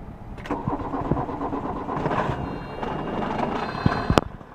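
A 1982 VW Rabbit pickup's diesel engine cold-starting after its glow plugs were warmed: it turns over about half a second in, catches and runs roughly. A sharp click near the end.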